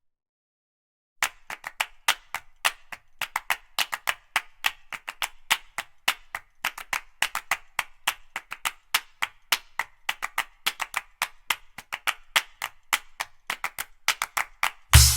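A rapid, uneven run of sharp clicks, several a second, starting about a second in after a moment of silence.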